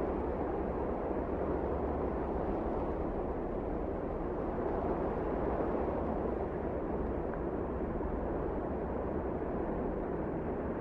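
Wind blowing steadily, a deep even rushing noise with no single gust standing out.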